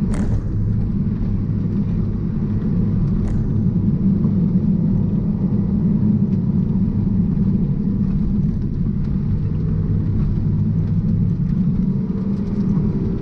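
Cabin sound of a first-generation Mazda MX-5's four-cylinder engine running steadily under load at speed, with road noise. The engine note shifts pitch partway through, and a short click comes right at the start.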